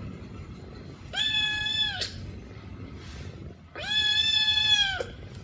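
Kitten meowing twice: two long, high, steady calls, each about a second long, the second a little longer.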